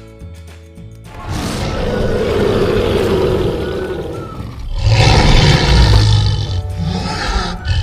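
A lion roaring twice, two long roars, the second one deeper, over background music.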